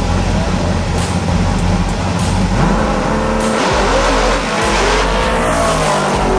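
Drag race cars' engines running with a loud, steady rumble, then accelerating hard about two and a half seconds in, their pitch rising as they pull away.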